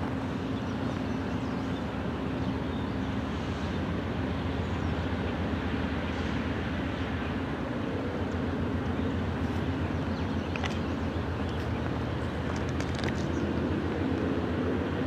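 Diesel locomotive engine running steadily, a low throbbing rumble with a steady hum over it and a few faint ticks.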